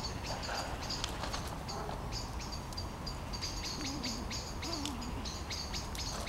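Small birds calling in a steady stream of short, high-pitched notes over a low outdoor rumble, with scattered sharp clicks.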